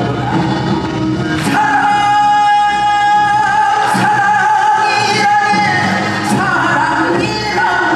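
A male singer singing live with a Korean traditional (gugak) orchestra, holding one long note through the middle and then bending it with a wavering ornament near the end. A few sharp percussion strikes punctuate the accompaniment.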